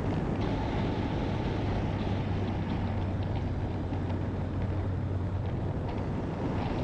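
Honda motorcycle running steadily on the road, its low engine hum under a heavy rush of wind on the microphone.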